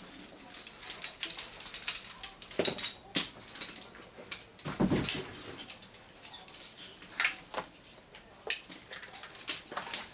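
Climbing gear being handled and packed: scattered sharp clicks and clinks of metal hardware with rustling, and a louder thud about five seconds in.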